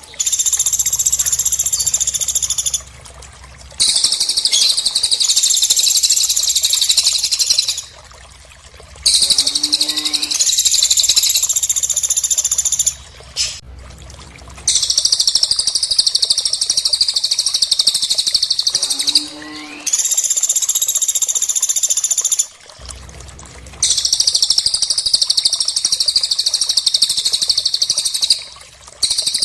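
Birdsong masteran recording of a golden-bellied gerygone (cililin) and woodpecker (pelatuk): high-pitched chirping song in bursts of a few seconds, separated by short pauses, with a short lower call twice.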